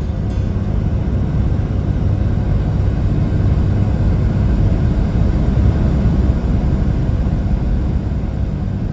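Steady low rumble of a vehicle on the move, engine and road noise, swelling slightly through the middle and easing near the end.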